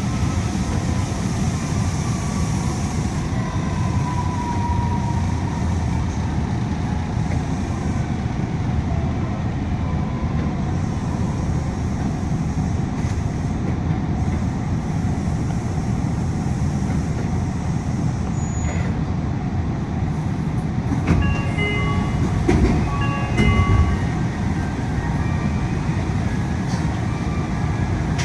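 Yui Rail monorail heard from inside the cabin while running: a steady low rumble of the running gear, with air-conditioning noise. A faint whine falls in pitch a few seconds in, and a cluster of short high tones and clicks comes near the end.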